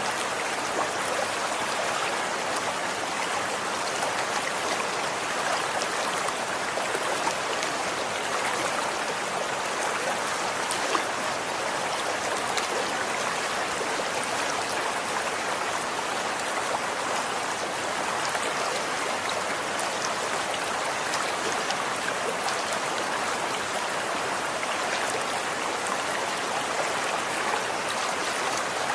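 Water running steadily in a stream, a constant rushing with small splashes and drips flecked through it.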